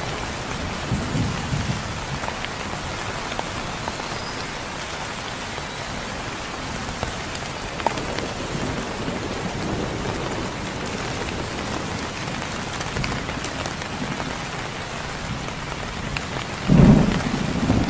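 Heavy rain falling steadily, with low rumbles of thunder: a faint one about a second in and a louder, short one near the end.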